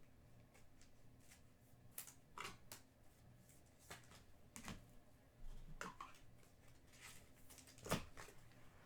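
Trading cards being handled and flipped through: faint, scattered clicks and soft slides of card stock, with the sharpest click near the end.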